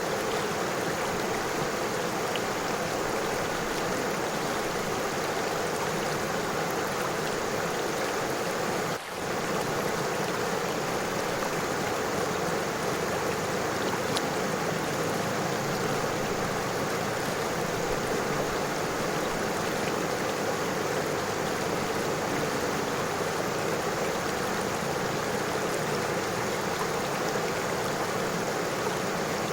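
River water flowing over stones: a steady, even wash of water noise with a brief drop in level about nine seconds in.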